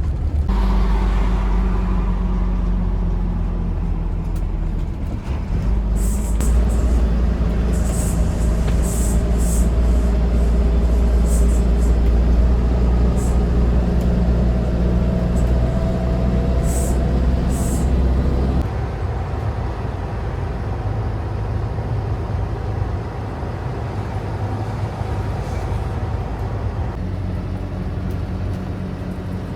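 A motor vehicle running, a steady low engine hum that drops somewhat in level about two-thirds of the way through, with a few faint clicks in the middle.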